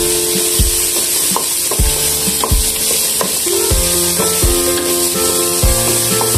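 Chopped onion and garlic sizzling in a pan as they are stirred with a wooden spatula, under background music with a steady beat.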